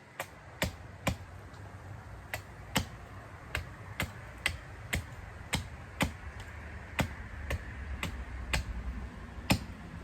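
A series of sharp, dry clicks, about fourteen at an uneven rate of one or two a second, over a low rumble; the loudest click comes near the end.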